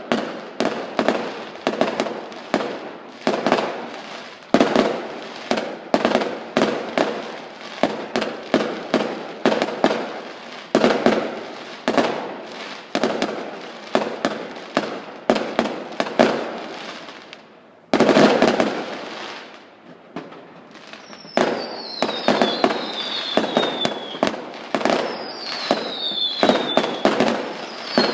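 Fireworks going off in quick succession: sharp bangs about one to two a second, each with a short echoing tail. About two-thirds of the way through comes a louder, longer burst. After that, short falling whistles sound among the bangs.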